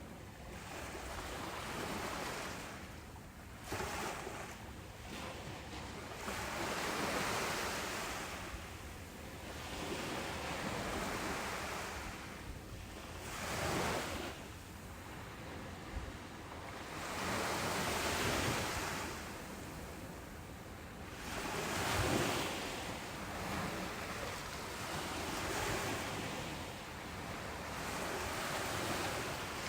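Ocean surf breaking on a beach, a wash of noise that swells and fades every few seconds as each wave comes in and draws back.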